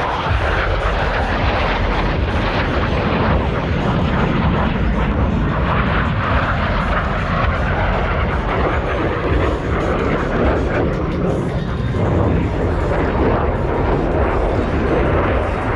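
Loud, steady jet engine noise from Blue Angels F/A-18 Super Hornets flying a display pass.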